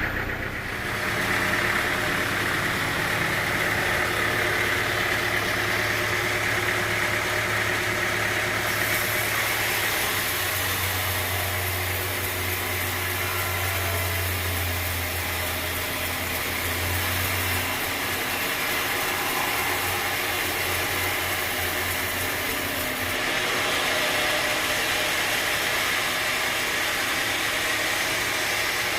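Sawmill machinery running steadily, an engine-like hum under a steady hiss of noise, the sound shifting in character about nine seconds in and again past twenty seconds.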